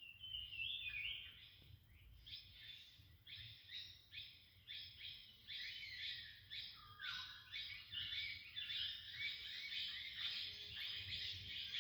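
Birds chirping: many short, quick notes that overlap, becoming denser about halfway through.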